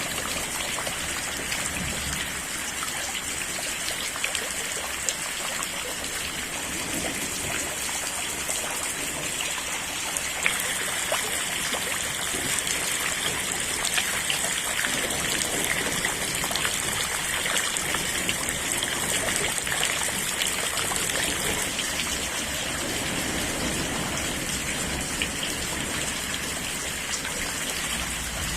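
Steady rain falling, with faint scattered ticks of drops hitting a surface.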